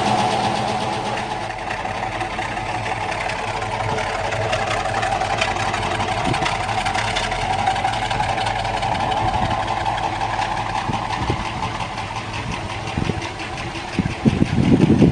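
GAZ-24-34 Volga's V8 engine idling steadily while it warms up, with a fast, even ticking rhythm. Louder, irregular noise comes in near the end.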